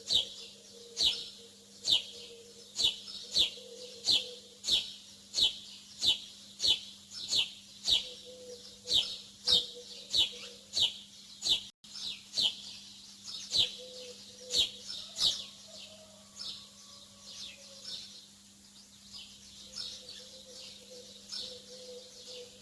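Small songbird chirping: a short, falling chirp repeated about twice a second, loud at first, then fainter and sparser from about halfway on. A steady low hum runs underneath.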